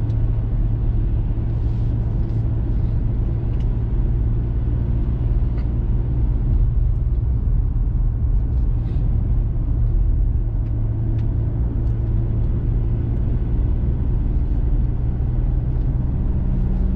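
Steady low engine and road rumble heard from inside the cabin of a diesel four-wheel-drive vehicle driving uphill on a snow-cleared mountain road, with a few faint ticks.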